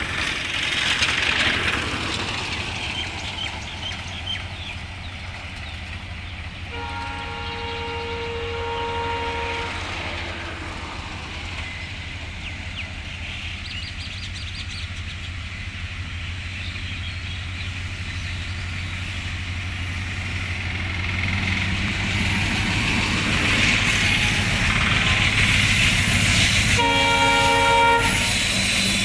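Train running with a steady low rumble, sounding its horn as a chord twice: a long blast about seven seconds in, and a shorter one near the end as the train grows louder.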